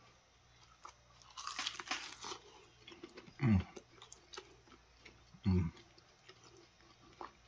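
A crunching bite into the crispy, flour-dredged crust of a deep-fried pork rib about two seconds in, then chewing with small crackles of crust. A man makes a short low "mm" twice as he chews.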